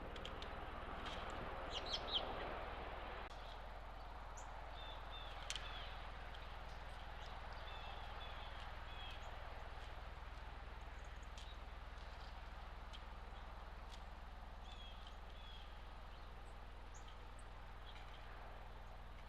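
Small birds at a feeder giving short chirps in scattered little groups, with a few sharper, louder notes about two seconds in, over a steady low hum and faint hiss.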